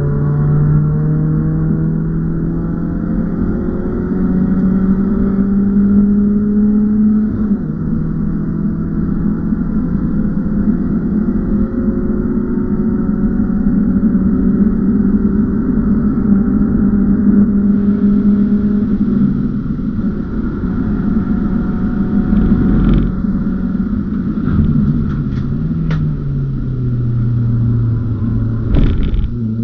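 BMW E36 318is four-cylinder engine heard from inside the cabin on track, pulling up through the revs and dropping back at gear changes and lifts, over steady road and tyre noise. A few brief sharp knocks come near the end.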